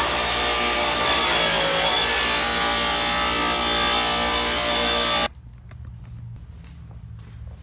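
Electric power saw running and cutting through a wooden board with a steady motor whine, stopping abruptly about five seconds in; a few faint knocks of wood follow.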